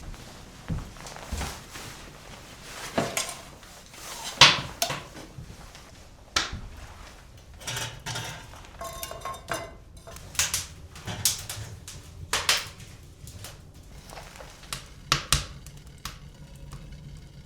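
Irregular knocks and clatters of objects being handled in a small room, about a dozen spread unevenly, a few with a brief ringing tone.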